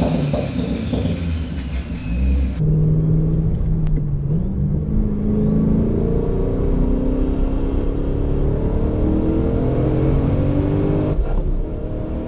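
Turbocharged Chevrolet Camaro SS V8 accelerating hard under boost, heard from inside the cabin, its engine note climbing steadily in pitch. A faint rising whistle sits above it near the end. The sound changes abruptly about two and a half seconds in and again near the end, at edits.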